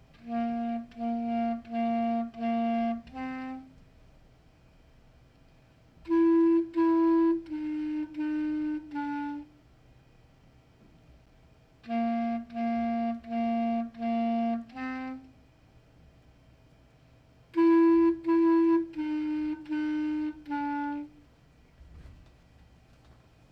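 Solo clarinet playing a simple five-note beginner tune in four short phrases: four repeated notes and one a step higher, then two higher notes stepping down, and the pair of phrases played again, with a short rest between each phrase.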